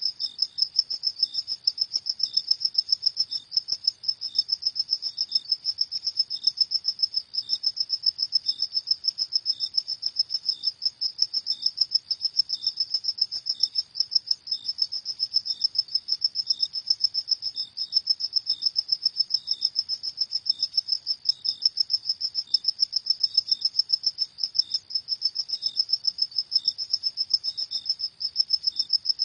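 Crickets chirping at night: a dense, rapid pulsed trill, steady and unbroken, with a second, slower repeating chirp beneath it.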